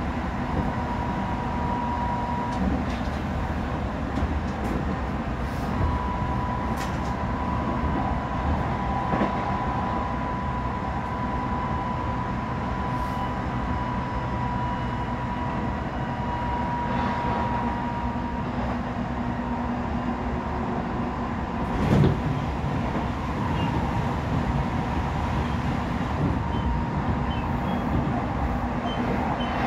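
Odakyu 3000 series electric train, with Mitsubishi IGBT VVVF inverter and totally enclosed traction motors, running at speed as heard inside a passenger car: steady rumble of wheels on rail with a steady high whine. A single loud thump about 22 seconds in.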